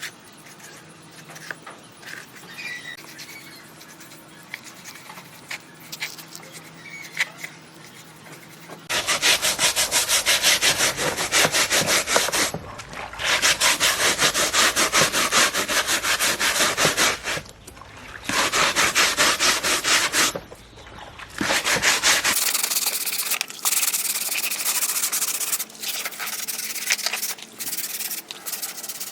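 A power sander working a surface in several bursts of a few seconds, each stopping and starting again, after some quiet handling clicks. From about two-thirds of the way in, the sanding goes on with a lighter, thinner sound.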